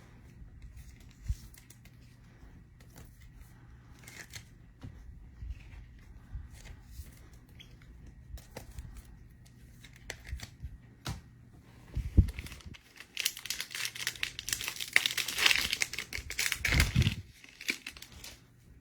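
Light clicks and card handling, a thump about twelve seconds in, then several seconds of crinkling and tearing as a trading-card pack wrapper is ripped open.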